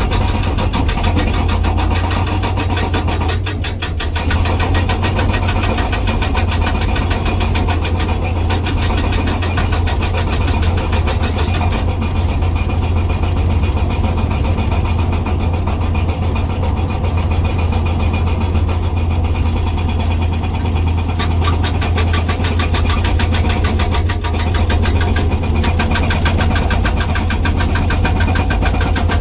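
Komatsu PC200 hydraulic excavator running, its hydraulic breaker hammering hard rock in a rapid, steady stream of blows over the diesel engine's low hum, with a brief let-up about four seconds in.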